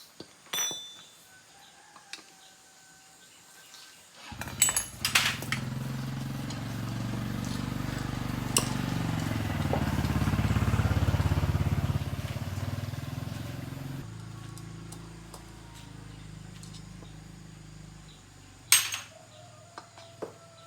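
Win 110 motorbike's small single-cylinder engine starting about four seconds in after a few sharp clicks, running up to its loudest and then dropping back to a lower, steady run.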